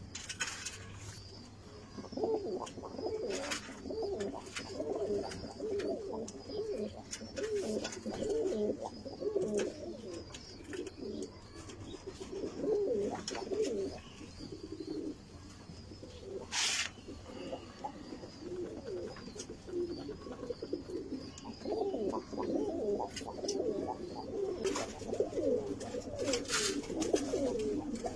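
Several domestic pigeons cooing at once, their low warbling coos overlapping without a break. Scattered sharp clicks and knocks sound among them, the loudest about two-thirds of the way through.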